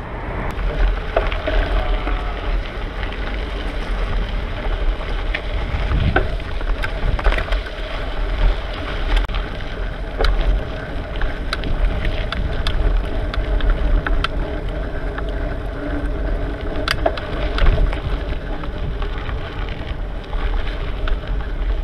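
Wind buffeting the microphone and road rumble from a bicycle being ridden, with scattered sharp clicks and rattles from the bike.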